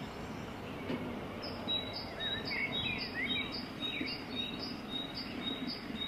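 Birds chirping and singing, with a short high note repeated about two to three times a second, over faint steady background noise.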